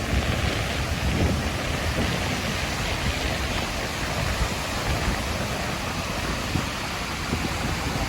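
Steady hiss of surf breaking on a sandy beach, with onshore wind rumbling on the microphone.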